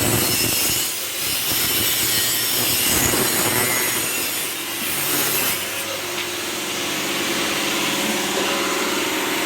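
A cutting tool works continuously through the steel exhaust pipe to take out the catalytic converter.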